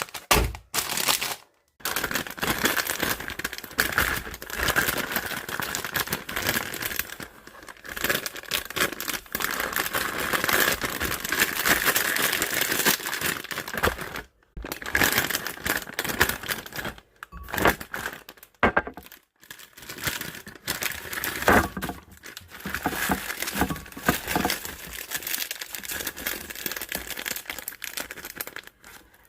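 Plastic snack packaging crinkling as it is handled, in long stretches of dense crackling broken by a few brief pauses.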